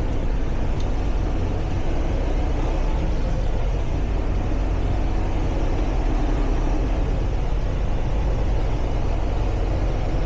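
Semi truck driving on the highway: a steady drone from the engine, with road noise underneath.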